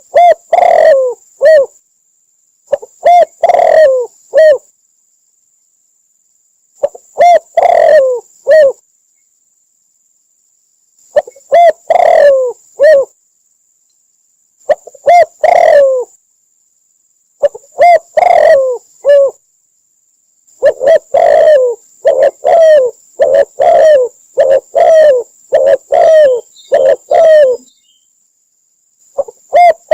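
Spotted dove cooing: a loud phrase of a few short, falling coos every three to four seconds, with gaps of silence between, and a longer unbroken run of coos in the second half.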